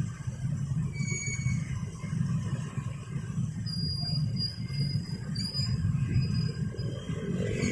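Passenger train rolling over a level crossing: a steady low rumble with short, high-pitched wheel squeals that come and go.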